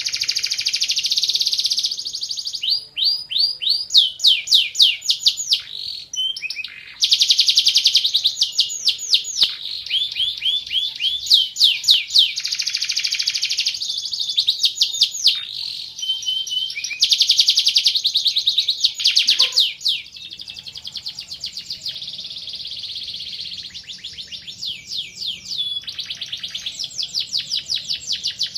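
Van Hesterling canary singing a long, continuous song of rapid trills and rolls, each run of quickly repeated high notes giving way to the next with only brief breaks.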